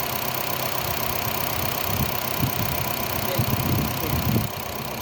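Honda Fit's four-cylinder engine idling steadily, with a few irregular low thuds between about two and four seconds in.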